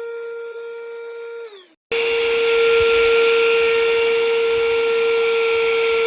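Handheld cordless dust-mite vacuum cleaner's motor running with a steady high whine. About 1.5 s in it winds down in pitch and stops. After a brief silence it is running again, louder and with more rushing air.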